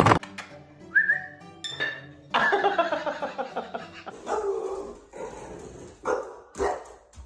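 A dog vocalizing in several separate calls: a short rising yelp about a second in, then longer drawn-out whining calls, and two short barks near the end.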